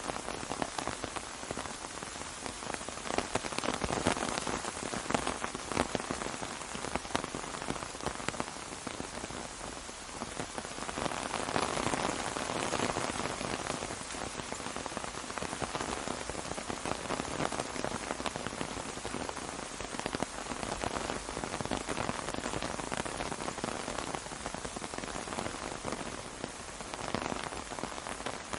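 Steady rain pattering on an umbrella, heard from underneath: a dense hiss of countless drop impacts that swells and eases a little without stopping.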